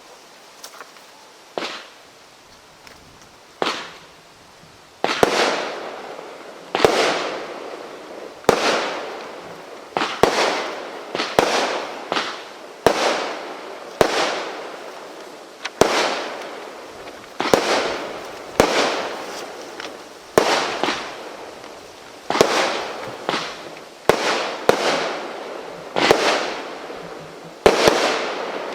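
Consumer firework cake firing. A few scattered shots come first, then from about five seconds in a steady run of sharp bangs roughly once a second, each followed by a short fading tail.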